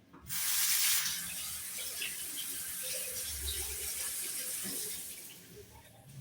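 Bathroom tap turned on and water running into the sink, loudest just after it starts, then a steady splash that fades out near the end.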